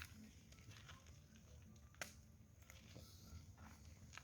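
Faint, sporadic crackling and popping of a burning fire, with one sharper pop about two seconds in; otherwise near silence.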